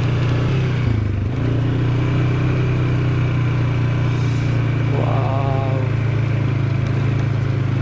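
ATV engine running steadily as the quad is ridden over snow, with a brief dip in engine note about a second in. A short voice sound about five seconds in.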